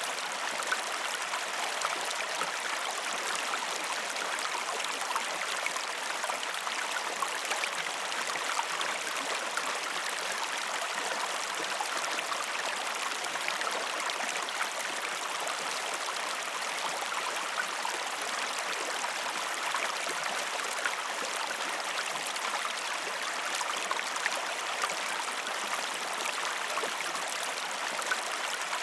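Waterfall water splashing and rushing steadily, a constant hiss of falling water with fine crackling spatter and little low rumble.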